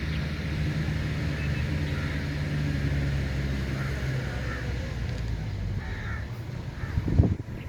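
A steady low engine hum with short bird calls over it, and one loud thump near the end.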